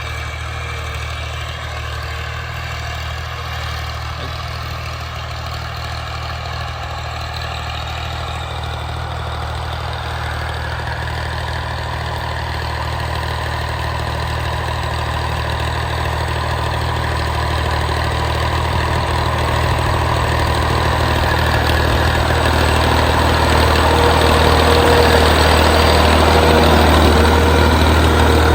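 Tractor engine running steadily with a low hum, growing gradually louder through the second half.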